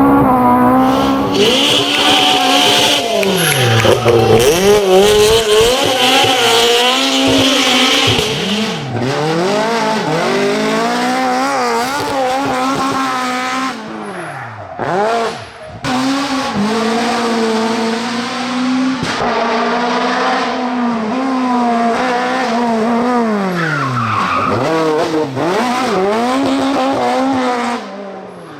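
Fiat 131 Abarth rally car's four-cylinder engine revving hard, the pitch climbing and falling again and again through gear changes and lifts. The tyres squeal steadily through a corner for the first several seconds.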